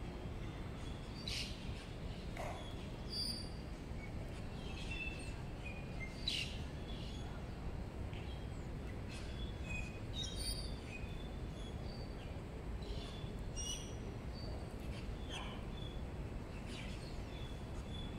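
Birds chirping now and then, short scattered calls over a steady low rumble of outdoor background noise.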